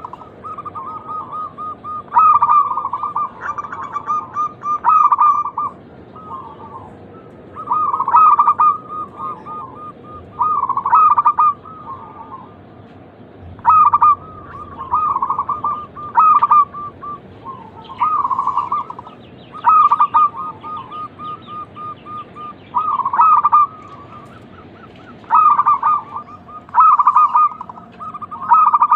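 Zebra dove (perkutut) cooing: phrases of rapid, pulsed coos, repeated every two to three seconds.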